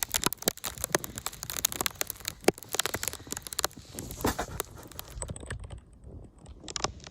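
Footsteps crunching through fresh snow, a dense, irregular crackling.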